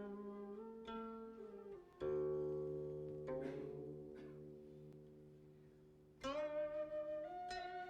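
Background instrumental music on a plucked zither-like string instrument, some notes bent in pitch. A note struck about two seconds in rings and fades slowly, and new plucked notes come in about six seconds in.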